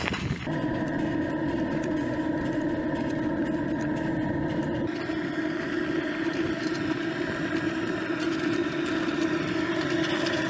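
An engine idling steadily, with an even hum of several tones.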